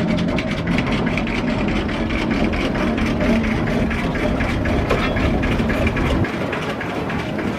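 Heavy vehicle engine running steadily with a low rumble and light rhythmic ticking; the low rumble cuts off about six seconds in.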